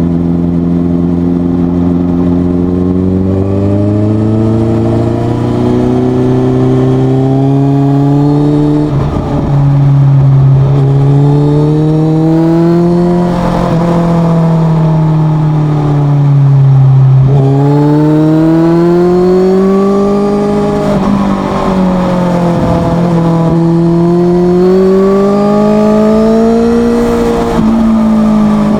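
2010 Suzuki GSX650F inline-four running through a Leo Vince exhaust with the dB killer removed. The engine note climbs and falls repeatedly as the bike accelerates and eases off, with a sudden break in the note every few seconds at the gear changes.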